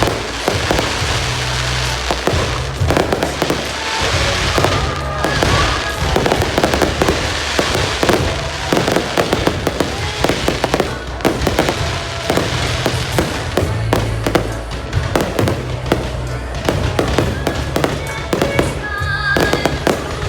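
Fireworks going off continuously: dense, overlapping bangs and crackles of aerial shells. Music with a steady bass plays underneath.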